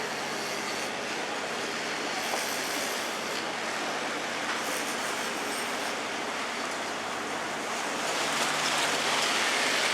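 Canal tour boat under way: a steady low motor hum beneath a rushing noise of water, getting louder near the end.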